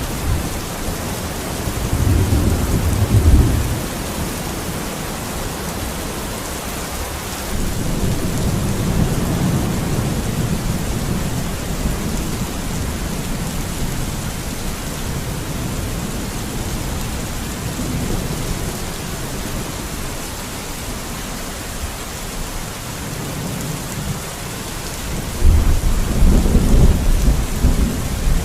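Steady rain falling, a constant even hiss. Deep low rumbles swell up three times: about two seconds in, around eight seconds in, and most strongly near the end.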